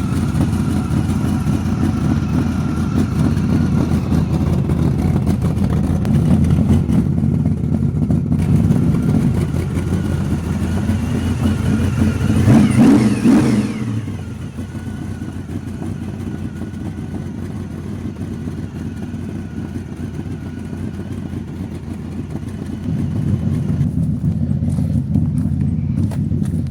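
Old car engine running at idle, with one brief rev about twelve seconds in that rises and falls, then settling to a quieter idle before picking up again near the end.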